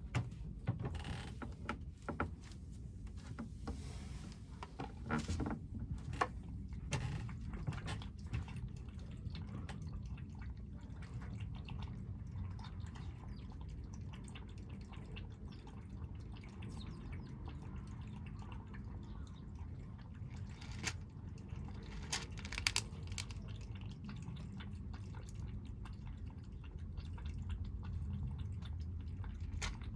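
Kittens eating, with small wet clicking and smacking sounds that are thickest in the first few seconds and come back twice near the end, over a low steady hum.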